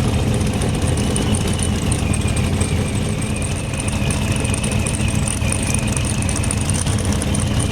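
Race vehicle engine idling steadily, with a thin high whine above it from about a second in.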